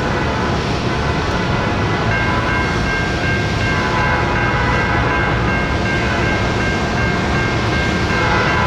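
A train running close by, with a loud, steady rumble and rail noise. About two seconds in, a steady chord of high tones joins it and holds.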